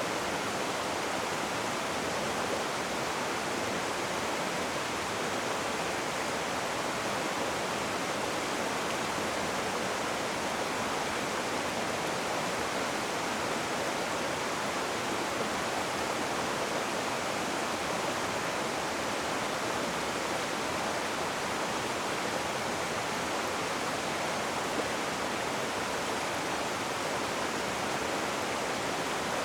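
Rushing water from a river or waterfall: a steady, even hiss with no breaks.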